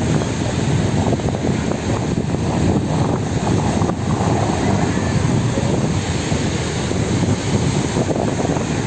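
Wind blowing hard across the microphone as a steady, gusting low rumble, with the wash of sea water beneath it.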